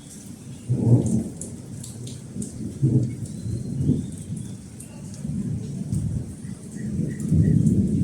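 Thunder rumbling in low rolls that swell about a second in, again around three seconds, and most strongly near the end, over steady rain.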